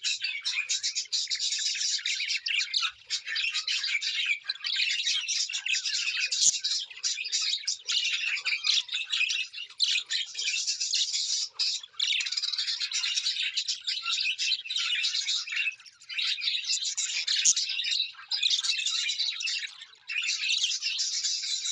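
A flock of small birds chirping and chattering nonstop in a dense, overlapping tangle of high calls, with brief lulls every few seconds.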